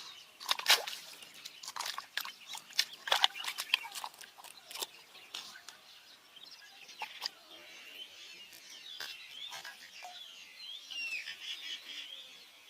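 A large bird handling and swallowing a fish: a run of sharp clicks and wet snaps, thickest in the first five seconds. From about seven seconds in, small birds chirp in the background.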